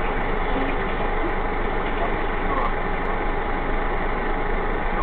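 Steady vehicle engine and road noise: an even low rumble with a faint constant hum, unchanging throughout.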